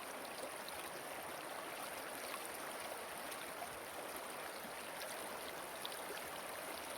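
Waterfall water rushing steadily, a constant hiss with faint small splashes in it.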